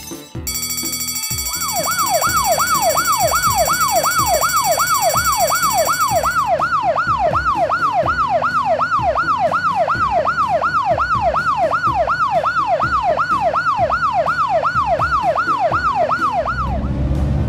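Emergency-vehicle siren sounding a fast yelp, sweeping up and down about twice a second, with a steady high-pitched tone over the first several seconds. Near the end the siren stops and a low engine rumble takes over.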